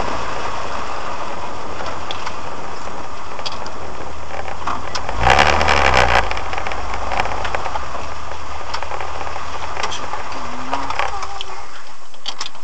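Car engine idling, heard from inside the cabin, revving up and back down about five seconds in as the vehicle is moved; the low engine hum drops away shortly before the end.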